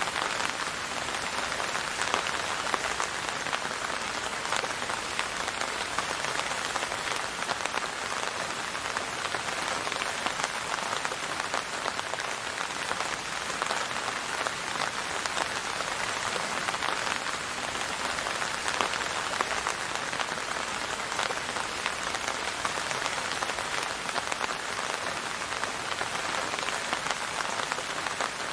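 Steady rain falling, a dense, even patter of drops with no thunder and no music.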